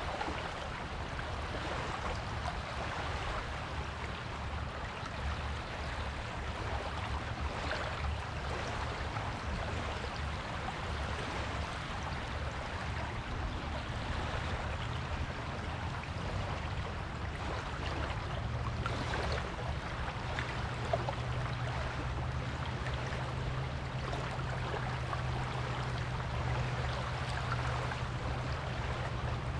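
Waves washing onto a beach, a continuous hiss of surf that swells and eases. A steady low hum joins about two-thirds of the way through.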